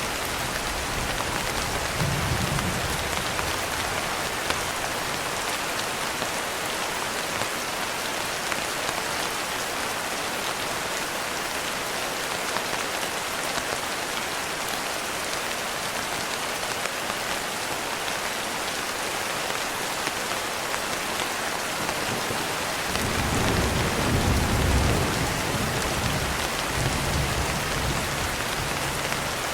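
Steady, heavy rain. Low rumbles of thunder come about two seconds in and again from about 23 seconds, the later one longer and louder.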